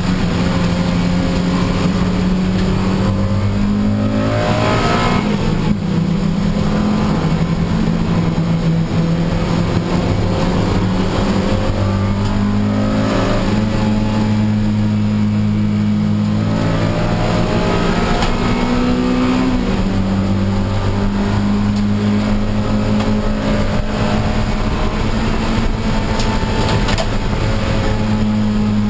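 Honda Civic Si race car engine running hard under load, heard from on board, its note rising and dropping several times with gear changes and throttle lifts, over a steady hiss.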